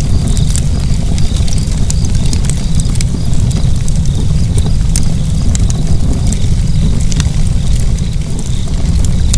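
Fire burning: a steady low rumble of flames with frequent, irregular sharp crackles and pops.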